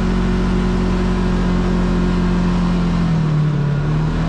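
Side-by-side UTV engine running steadily while driving, with its pitch dipping briefly about three seconds in as the throttle eases off, then picking back up.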